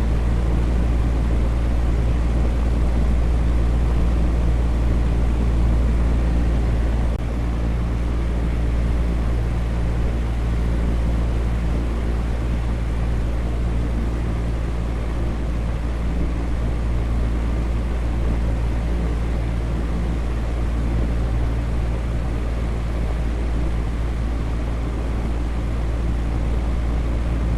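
Fan running steadily: an even, airy noise over a low hum, dropping slightly in level about seven seconds in.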